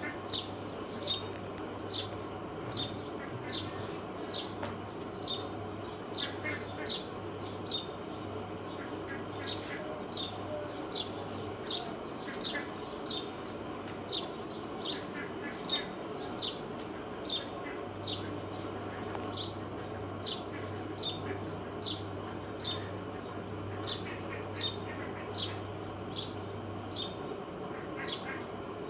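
A bird calling over and over in short, high, downward-sliding chirps, roughly one and a half a second, with other birds chirping softly now and then. A low hum comes and goes underneath.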